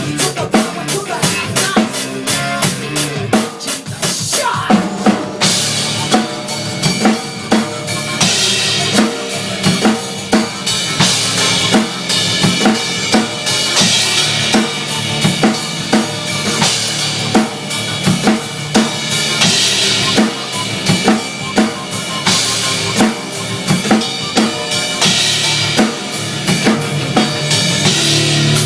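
A drum kit played hard over loud rock music: bass drum, snare and rimshots, with fast rolls in the first few seconds and crashing cymbal bursts after that.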